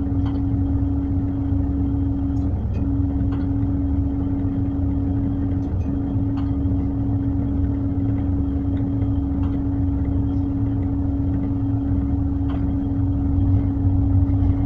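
Tug boat engine running steadily while manoeuvring a barge alongside, a continuous low rumble with a constant hum over it that dips briefly twice in the first six seconds.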